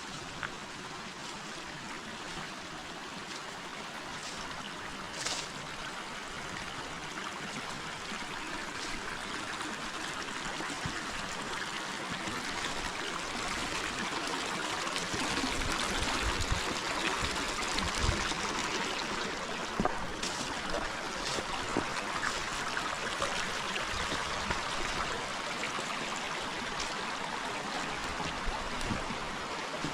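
Forest river water running and trickling, a steady rush that grows louder through the first half, with a few faint clicks and soft low knocks.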